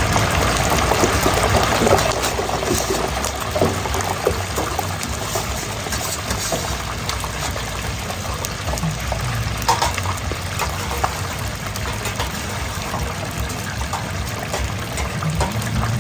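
Steady hissing kitchen noise inside a working food truck, with a low rumble underneath and a few short clatters of utensils or pans.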